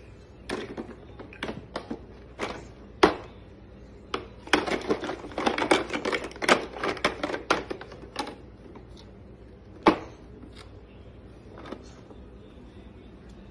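Wrapping paper torn and crumpled as a toddler opens a present: scattered crackles and sharp taps, a dense stretch of crinkling in the middle, and one sharp knock near ten seconds.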